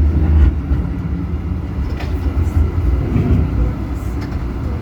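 Tram running along street track: a steady low rumble from wheels on rails and running gear, with a few short clicks.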